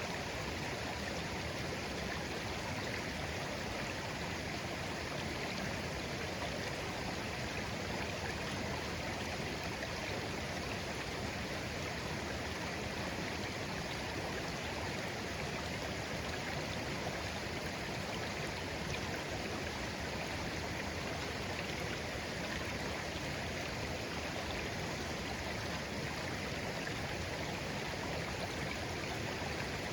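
Shallow clear stream flowing gently over stones, a steady babbling.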